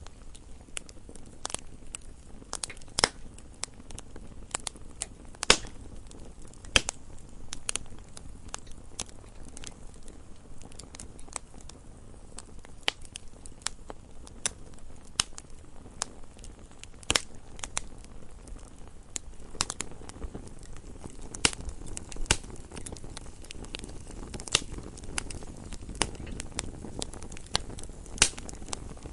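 Campfire crackling: burning wood snapping and popping at irregular intervals over a soft low rush of flame.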